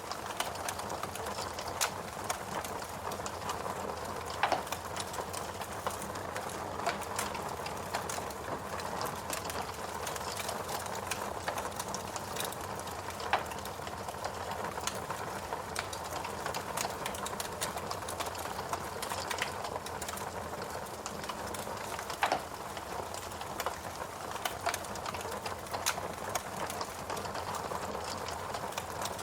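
Fireplace crackling: irregular snaps and pops over a steady hiss, with a few louder pops now and then.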